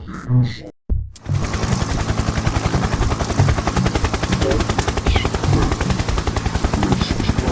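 A logo jingle's audio put through a rapid stuttering 'vibration' effect: after a brief dropout about a second in, it becomes a dense, loud, fast rattling buzz like machine-gun fire.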